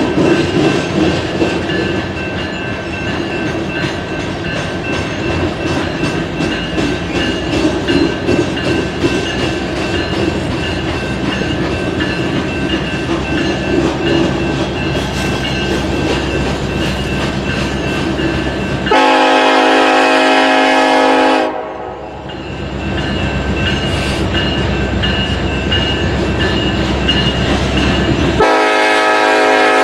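BNSF freight train rolling by with a steady rumble and rail noise, then a diesel locomotive's air horn sounds a chord: one blast of about two and a half seconds about two-thirds of the way in, and a second blast starting near the end.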